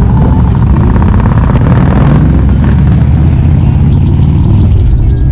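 Harley-Davidson motorcycle's V-twin engine running loudly and steadily while riding, its exhaust pulsing.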